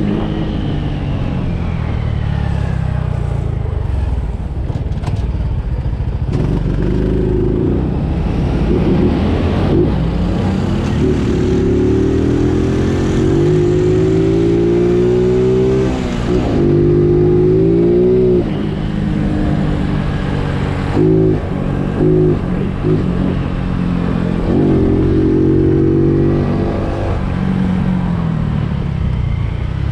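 Honda Biz single-cylinder four-stroke engine running under way, its pitch climbing several times as the bike speeds up and dropping back briefly between climbs, most clearly around the middle and about two thirds of the way through.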